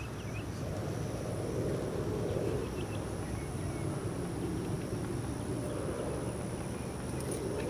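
Electric motor and propeller of a Hobbyzone Super Cub RC plane droning in flight, swelling and fading as it passes, over wind rumble on the microphone.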